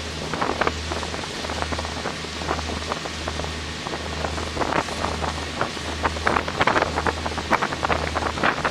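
Low, steady drone of a triple-deck passenger ferry's engines pulsing at an even rate as it pulls away. Wind crackles and buffets on the microphone, growing stronger in the second half.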